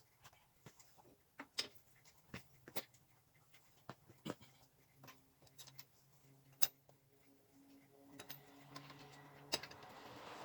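Faint, scattered clicks and light knocks of tools and parts being handled, a few each second and irregular, over a faint low hum. A soft hiss builds near the end.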